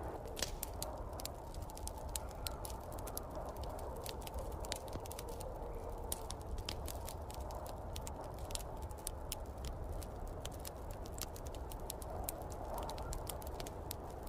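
Wood fire crackling in a fireplace: a quick, irregular run of sharp pops and ticks over a steady low rushing noise.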